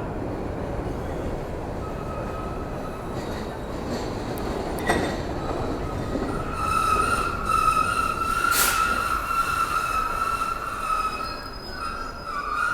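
Rail train rumbling along the track with its steel wheels squealing: a high, steady squeal that is faint at first, grows loud from about halfway through and stops near the end. There is a sharp click about five seconds in.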